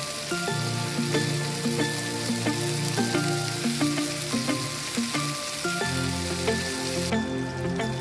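Bacon-wrapped enoki mushroom rolls sizzling as they fry in a pan. The sizzle drops away about seven seconds in.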